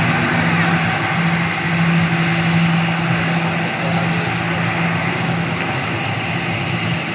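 Aircraft engines running loud and steady: a broad rushing noise over a low hum that wavers in and out.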